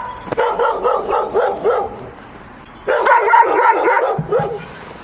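A dog whining and yipping in quick, repeated high calls, in two bouts with a short lull between them.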